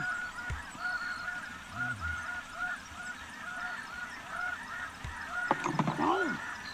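Snow goose calling: a steady run of short, high honks repeating about twice a second, with a louder, lower call near the end.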